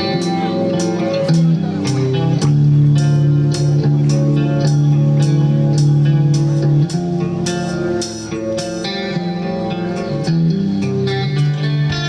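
A band playing: guitar and bass over a steady drum beat.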